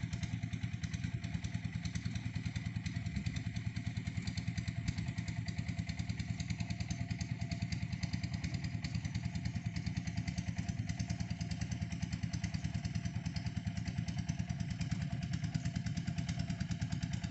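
Small engine of a red-brick moulding machine running steadily with a rapid, even beat.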